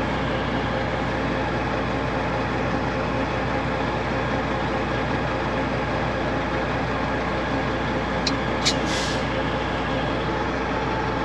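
Kenworth truck's Detroit Diesel engine running steadily, heard from inside the cab, with a couple of sharp clicks and a short hiss a little past eight seconds in.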